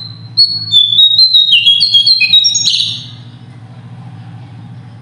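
A small songbird singing a rapid run of clear, high whistled notes that step up and down in pitch, ending about three seconds in with a short harsher note. A steady low hum runs underneath.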